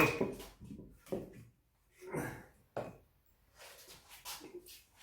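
Wood being split into kindling with an axe: the ringing tail of a blade strike fades at the start, then a few light wooden knocks and faint clatter as the split sticks are handled and set up for the next blow.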